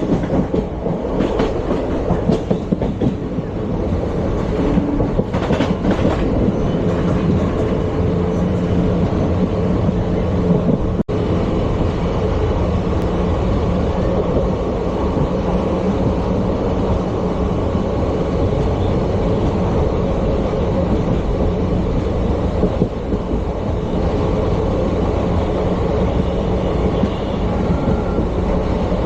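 ICF passenger coach running at speed: a steady rumble and low drone of wheels on rail, with several clacks over rail joints in the first few seconds.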